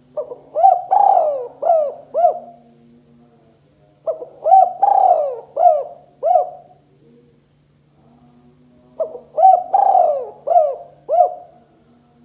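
Spotted dove cooing: three phrases of about five notes each, roughly four seconds apart, with a faint steady hum underneath.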